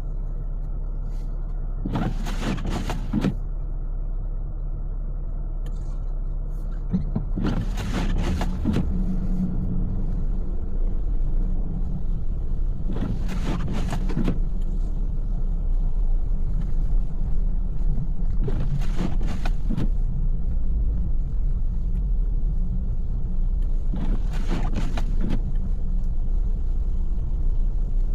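Car running along a snowy road, heard from inside the cabin as a steady low rumble. The windshield wipers sweep on an intermittent setting, with a brief swish about every five and a half seconds, five times.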